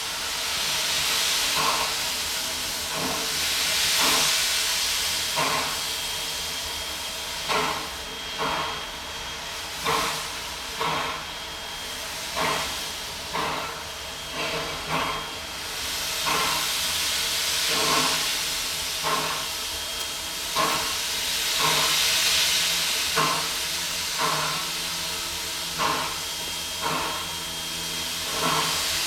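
Two steam locomotives working hard at slow speed: heavy exhaust chuffs about once a second over a constant steam hiss, with swells of louder hiss. The slow, labouring beat is the sign of the engines straining to move a heavy train.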